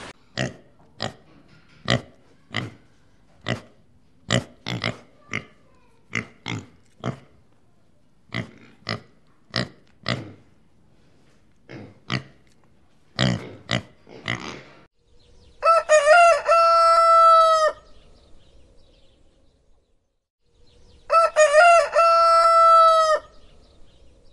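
A string of short animal grunts, one or two a second, for about the first fourteen seconds. Then a rooster crows twice, each crow about two seconds long and louder than the grunts.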